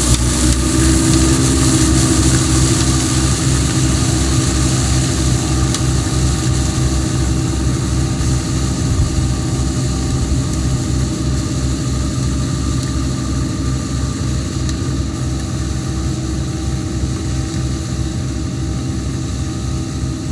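Massey Ferguson 399 tractor's six-cylinder diesel engine running steadily.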